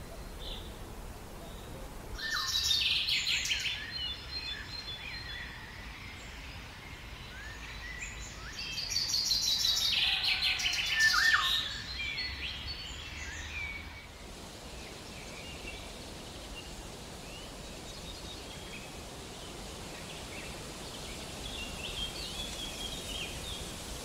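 Bird calls: two loud bouts of rapid, harsh chattering calls, one about two seconds in and a longer one from about nine to twelve seconds in, then scattered faint chirps over steady outdoor background noise.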